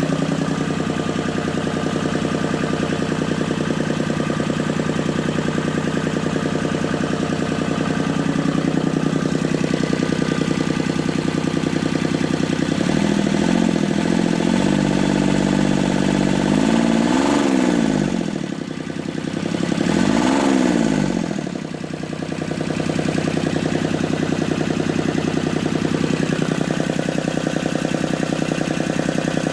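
Mitsubishi S3L2 three-cylinder diesel engine running steadily. About halfway through its speed is raised, it is revved up and back down twice, and then it drops back to idle.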